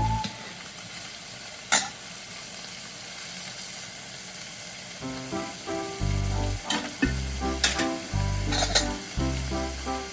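Food frying in a pan with a steady sizzle, and a single sharp click just under two seconds in.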